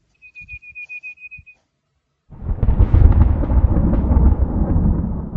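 A short high warbling trill of about a dozen quick pulses, then, a little over two seconds in, a loud low rumble starts and keeps going.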